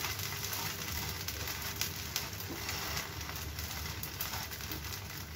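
Ghiya (bottle gourd) oats chilla frying in a little mustard oil in a nonstick pan: a steady sizzle with small crackles as the second side crisps.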